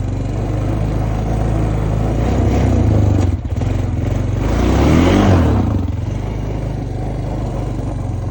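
Honda Foreman ES ATV's single-cylinder engine running as it is ridden, the revs rising around the middle and then easing back to a steady run.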